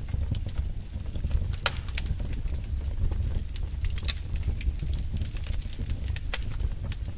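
Fire burning in a fireplace, crackling with scattered sharp pops over a steady low rumble.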